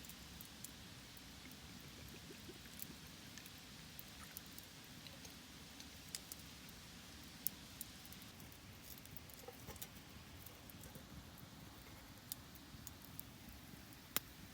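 Faint wood campfire crackling: sparse, irregular small pops and ticks over a low steady hiss, with a sharper pop about seven seconds in and another near the end.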